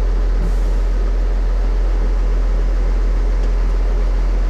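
Tractor diesel engine idling steadily, a constant low hum with no change in speed.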